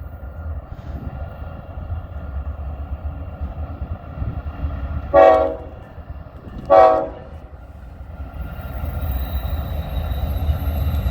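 BNSF freight train's diesel locomotives rumbling as the train comes down the grade, with two short horn blasts about halfway through. The rumble grows louder near the end as the train draws closer, and thin high-pitched tones join it.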